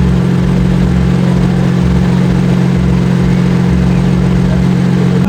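A car engine idling steadily, a loud, even low hum that holds one pitch throughout.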